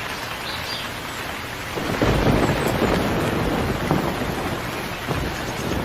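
Rain falling, with a low rumble of thunder swelling about two seconds in.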